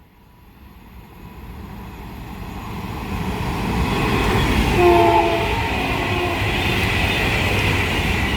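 Avanti West Coast Class 390 Pendolino electric train approaching and passing at speed. Its rush and rumble build steadily, and a short horn blast sounds about five seconds in.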